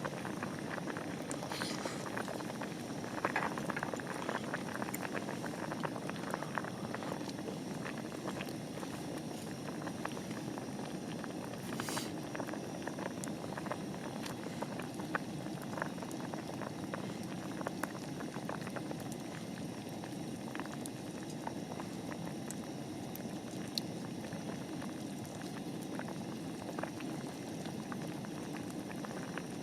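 Pot of liquid bubbling at a steady rolling boil, with a few sharp clicks over it.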